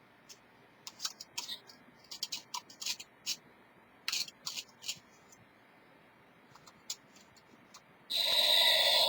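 Small plastic clicks and taps from handling, then about eight seconds in the repaired battery-powered Halloween head decoration suddenly starts playing its loud electronic sound effect.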